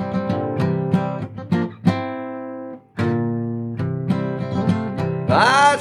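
Acoustic guitar playing a song intro in steady plucked chords; one chord is left ringing about two seconds in and is cut off sharply a second later before the playing picks up again. A singing voice comes in near the end.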